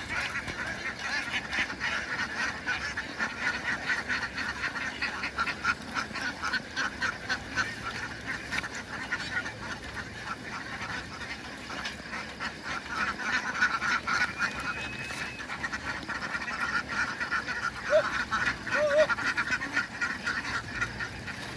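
A large flock of ducks quacking: a continuous dense chorus of many overlapping quacks.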